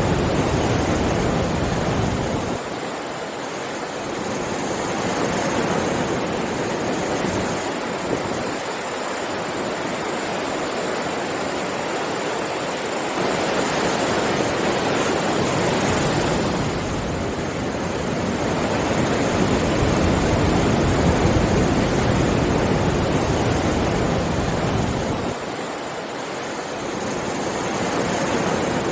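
Sea waves breaking and washing on the shore: a continuous rushing of surf that swells and falls back several times, easing a few seconds in and again near the end.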